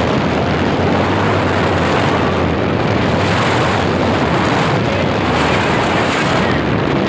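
Speedboat engine running steadily at speed under way, a constant low hum under a loud rush of wind on the microphone.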